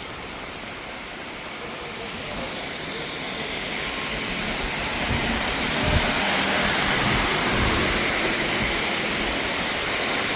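Heavy rain, a dense steady hiss that swells louder over the first few seconds and then holds, with some low rumble about halfway through.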